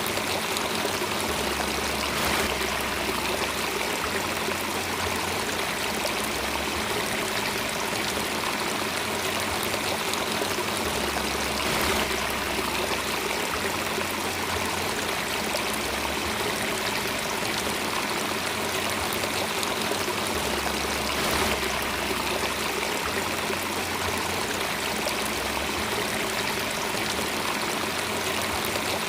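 Flowing stream of water, a steady running and trickling sound with no change in level.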